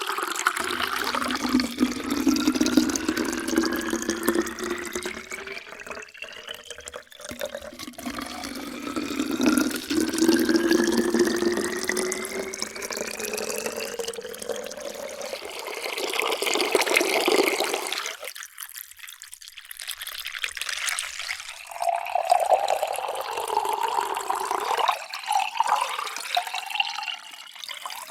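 Water poured into a vessel, the splashing carrying a tone that rises steadily in pitch as the vessel fills. There are two long fills one after another, then a short gap before another pour begins.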